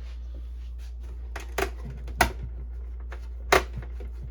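Plastic printer casing being handled, with a few sharp clicks and knocks, the loudest about two and three and a half seconds in. A steady low hum from a dehumidifier runs underneath.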